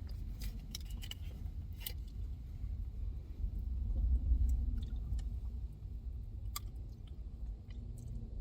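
Steady low rumble of a car's cabin while driving, with a few faint clicks and rustles.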